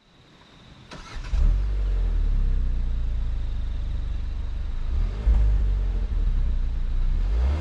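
Kia Seltos four-cylinder petrol engine accelerating hard under full throttle. It rises from near silence about a second in, then holds a steady, loud drone, with a brief dip and jump a little past halfway.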